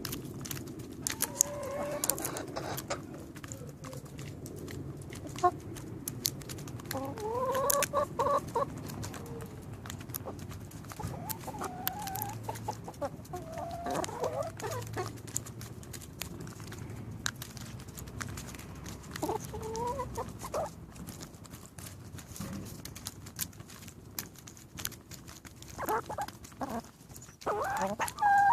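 Chickens clucking and giving short calls now and then while feeding, with scattered short clicks.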